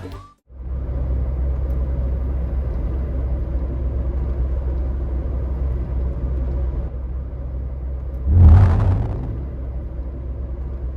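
Steady low vehicle rumble, with a louder whooshing surge lasting about a second near the end.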